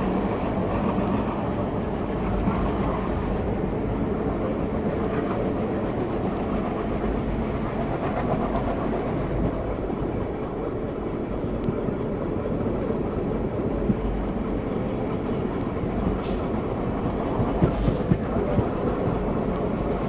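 Passenger train coach running on the rails, a steady rumble of wheels and running gear, with a few sharp clicks, several close together near the end.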